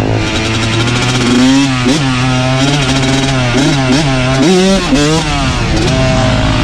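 Dirt bike engines running: one holds a steady pitch while another's revs rise and fall repeatedly in short blips.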